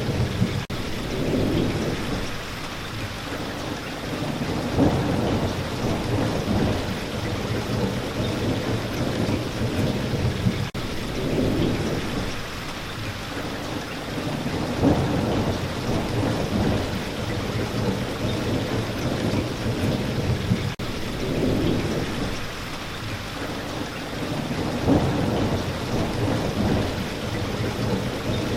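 Steady rain falling, with low rolling thunder swelling and fading about every five seconds.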